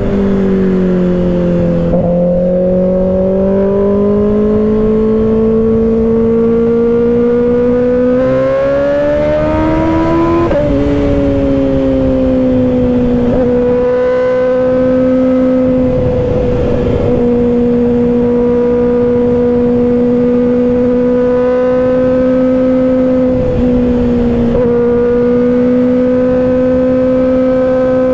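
Kawasaki ZX-6R's 636 cc inline-four running through an M4 aftermarket exhaust under way. The engine note climbs steadily for several seconds, drops abruptly about ten seconds in at an upshift, then holds an even pitch at cruising speed, with wind rush underneath.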